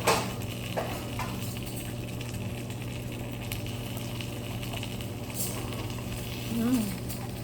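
Food sizzling, over a steady low hum, with a sharp clink right at the start and another about a second in.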